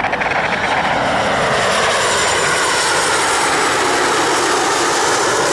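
Jet airliner's twin turbofan engines, likely an Embraer 190, flying low past on approach to land. It is loud and steady, and its pitch falls as it goes by.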